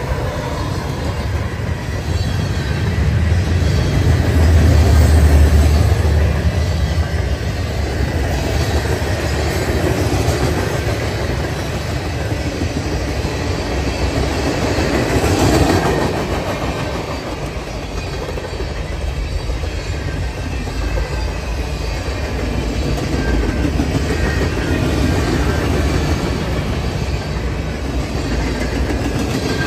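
Freight train passing close by: diesel locomotives rumbling, loudest about five seconds in, then a long string of freight cars rolling past with steel wheels clicking over the rail joints.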